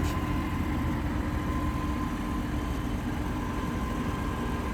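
An engine idling steadily: a low rumble with a steady hum over it, and a brief click right at the start.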